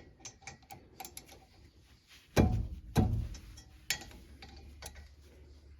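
Hand ratchet clicking as a brake caliper bolt is turned, with two heavier knocks about two and a half and three seconds in.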